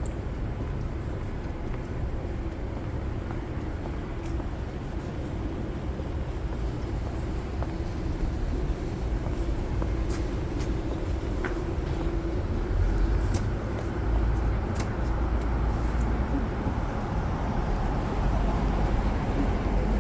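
City street traffic: a steady rumble of passing vehicles that grows louder about halfway through, with a few faint clicks.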